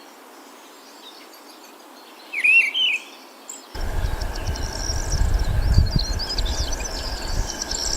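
Songbirds chirping in the wild: a short twittering call, then about two-thirds of the way in a louder recording starts abruptly. It has a steady high insect drone, more high bird chirps and a low rumble.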